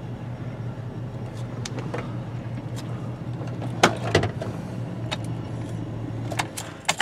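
A 2004 Chevrolet Tahoe's V8 idling, heard from inside the cab, with a misfire in cylinder 7 (code P0307). A couple of sharp clicks come about four seconds in, and the engine is switched off right at the end.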